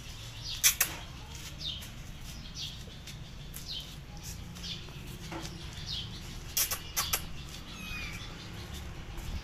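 Small birds chirping: short, high, falling notes about once a second. A few sharp clicks come through, one about a second in and a close pair near the end, over a steady low hum.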